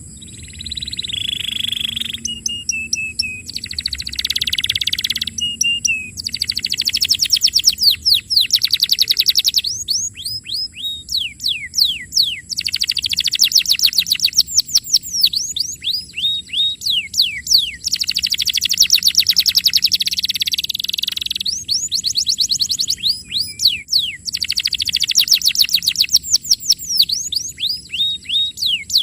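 Domestic canary singing a long, continuous song of fast trills and rapidly repeated downward-sweeping notes, phrase after phrase with brief breaks.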